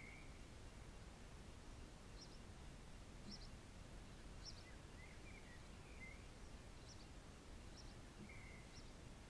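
Faint birds calling: short high chirps about once a second and a few brief warbling phrases, over low steady background noise.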